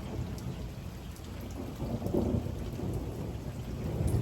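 Heavy rain pouring down with thunder rumbling low, the rumble swelling about halfway through and again near the end.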